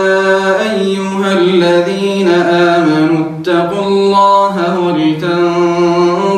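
A man's voice chanting Quran recitation in melodic tajweed style, drawing out long held notes that step up and down in pitch, with a short breath about three and a half seconds in.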